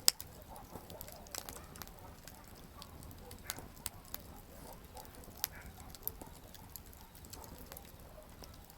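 Wood campfire burning: irregular crackles and sharp pops from the burning wood over a low, steady rumble of flame, with the loudest pop right at the start.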